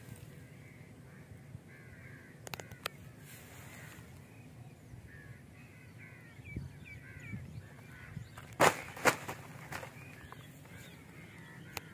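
Birds calling in short repeated calls over a steady low outdoor rumble, with two loud sharp knocks about half a second apart near the end.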